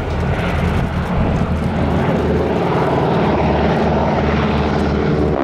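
Boeing Stearman biplanes' radial engines and propellers droning in a low pass, growing louder over the first second or two and then holding steady.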